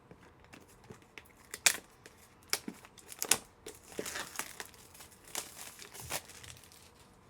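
Plastic card packaging being crinkled and torn open by hand, with sharp clicks and snaps; the crinkling is densest a little past the middle.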